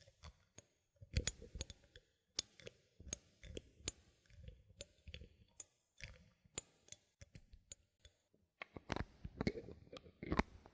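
Bottle caps handled close to the microphone: a string of short, sharp clicks and taps at irregular intervals, with one louder click about a second in and a denser run of fuller knocks and rattles near the end.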